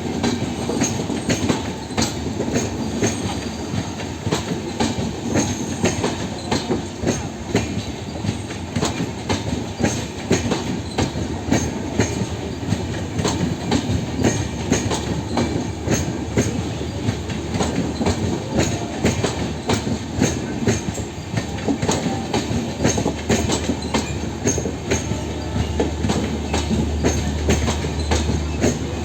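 Express train coaches rolling on the track, with a dense, continuous clickety-clack of wheels over rail joints and a steady rumble. A low hum grows louder near the end.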